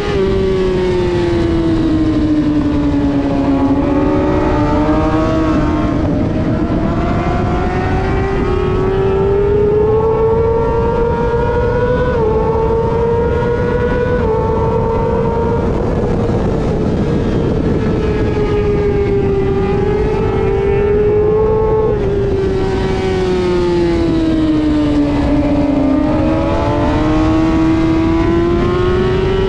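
Superbike racing motorcycle engine heard onboard at race pace. Its note drops as the bike slows for a corner, climbs and holds as it accelerates down a straight, with small steps at gear changes, then drops and climbs again near the end, all over a steady low rush of noise.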